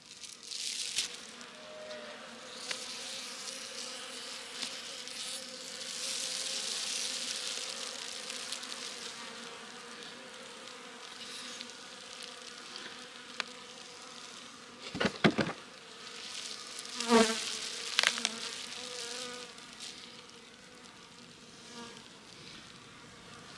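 Honeybees buzzing in a steady hum, with two clusters of loud knocks and scrapes about two-thirds of the way through.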